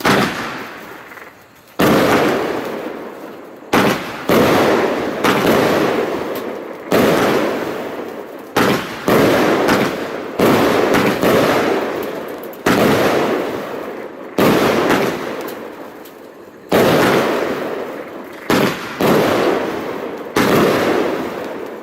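A 13-shot 30 mm fireworks battery (Pyro Specials Bombshell) firing its shots in sequence: a sharp bang every one to two seconds, sometimes two close together, each trailing off in a fading rush of sound.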